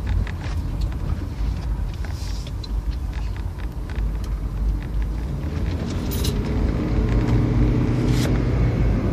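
A car running with a steady low rumble; about six seconds in, a steadier engine tone rises up over it.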